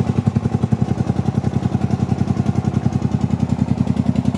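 Single-cylinder diesel engine of a công nông farm tractor-truck running steadily, an even chugging beat of about seven to eight strokes a second.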